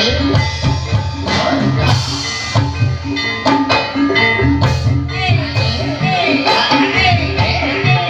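Live ebeg music from a Javanese gamelan-style ensemble: ringing metallophones and drums playing a steady rhythm, joined from about five seconds in by a bending melodic line.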